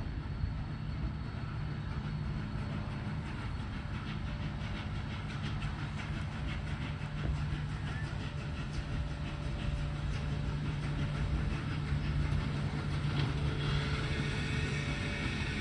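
A train rolling past: a steady low rumble with wheels clicking over the rails, getting a little louder near the end.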